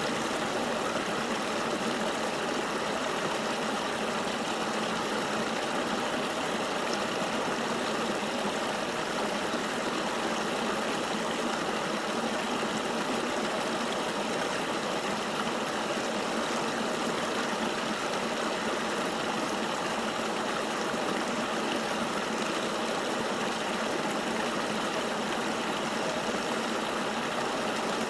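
River water flowing: a steady, even rushing hiss with almost no deep rumble.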